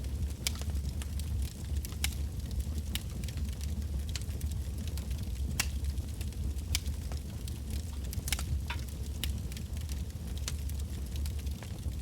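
Wood bonfire burning: firewood crackling with many irregular sharp pops over a steady low rumble.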